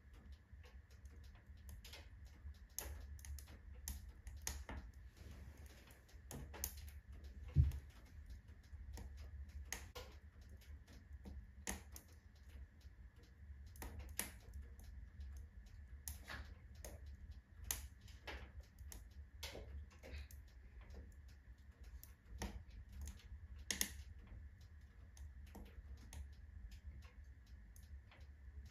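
Firewood burning in a wood stove, crackling with sharp pops at uneven intervals over a steady low rumble. One louder thump comes about eight seconds in.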